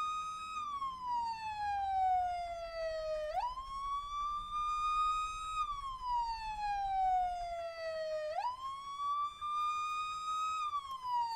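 Police car siren on a slow wail: each cycle rises quickly, holds briefly, then falls slowly, repeating about every five seconds.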